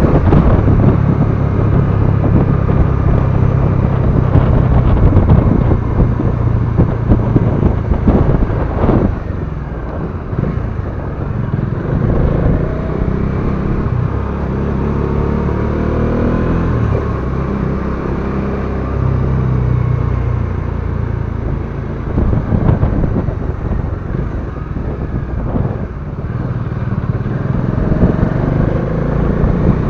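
Bajaj Dominar 400's single-cylinder engine running under way, its note shifting up and down with changes in speed, over wind and road noise.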